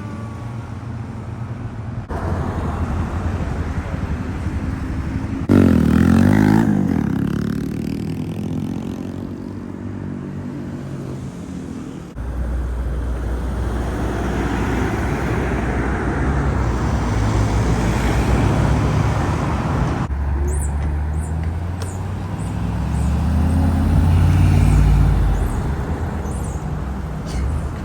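Car engines running and accelerating in street traffic over several short cuts, with a sharp loud rev about six seconds in and another rising rev near the end.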